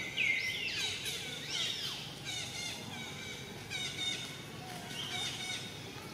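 Birds chirping and calling in the trees: two loud downward-sliding whistles near the start, then short runs of quick high chirps every second or so.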